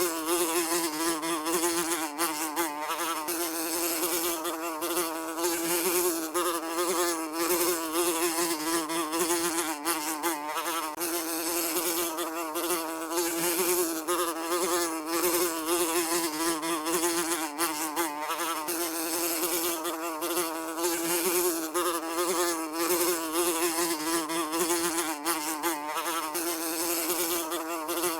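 Housefly buzzing continuously, a steady droning hum with a slightly wavering pitch.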